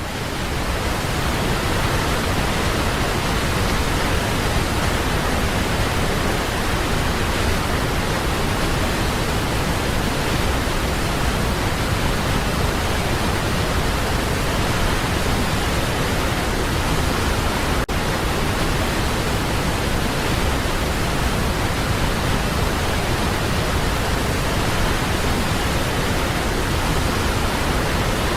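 Waterfall: water falling and rushing in a steady, even roar of noise with no change in level.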